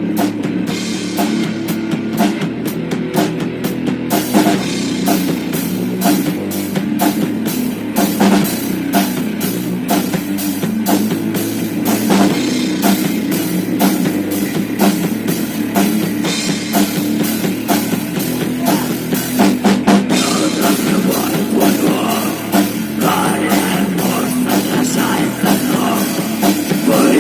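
Instrumental rock music: distorted guitars over a full drum kit with a steady beat, the drums coming in fully about four seconds in.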